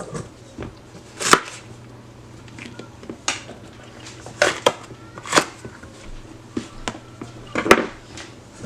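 Kitchen knife cutting poblano chiles on a cutting board: irregular sharp knocks of the blade hitting the board, roughly one every second or so, with softer cuts between.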